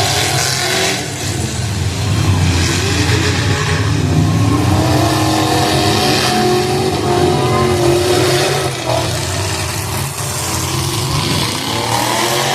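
Demolition derby cars' engines revving hard together, their pitch rising and falling as they accelerate and back off over a dense low rumble.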